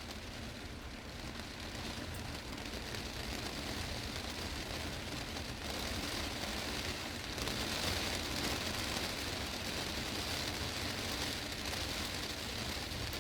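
Heavy rain falling on a glass greenhouse roof: a steady, dense hiss of drops on the glass that grows louder over the first half and then holds.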